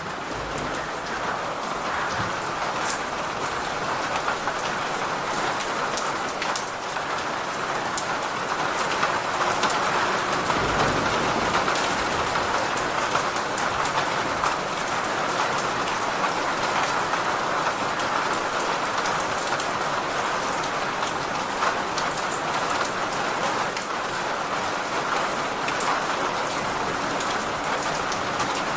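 Steady rainfall: an even hiss of rain with many small, sharp drop ticks, swelling slightly over the first ten seconds.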